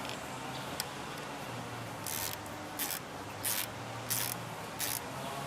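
Tool working the anchor bolt on a bicycle's front brake cable as it is tightened. Five short raspy strokes come in an even rhythm, about one and a half a second, starting about two seconds in.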